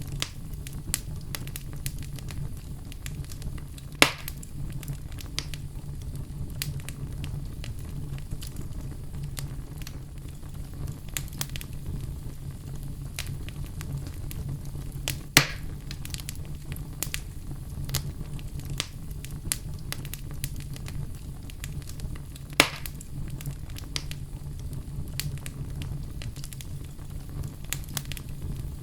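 Wood fire in a fireplace crackling, with frequent small clicks and three louder pops spread through, over a steady low rumble.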